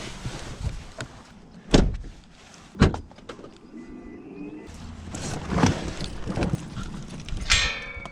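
Two sharp thuds about a second apart, vehicle doors being shut, followed by quieter knocks and handling noises.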